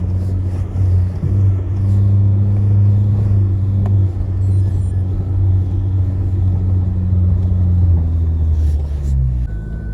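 A four-wheel drive's engine running at steady revs, a steady low drone that shifts slightly near the end.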